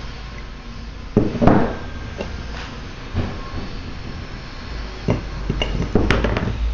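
Irregular knocks and clunks as small metal engine parts are handled and set down, over a low handling rumble on the microphone. The loudest clunk comes about a second and a half in.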